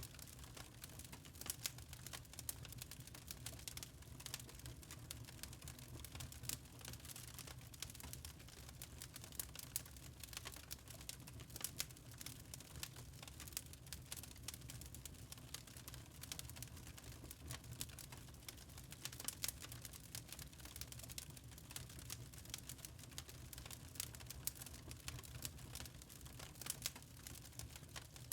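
Wood fire crackling in a fireplace: many irregular sharp pops and snaps from burning logs over a low steady hum.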